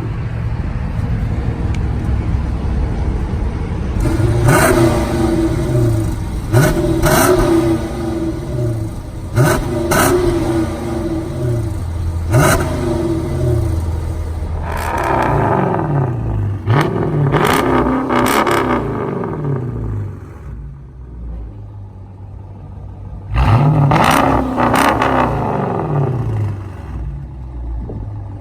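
2016 Dodge Charger R/T's 5.7-litre HEMI V8 with a straight-piped exhaust, revved in sharp blips again and again, each rising and falling back to a loud idle; it settles to idle for a few seconds about two-thirds through, then revs twice more.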